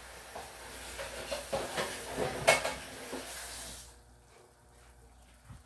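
Chorizo, potato and egg mixture sizzling and crackling in a frying pan, with a sharper click about two and a half seconds in. The sizzle drops away to a faint hiss about four seconds in.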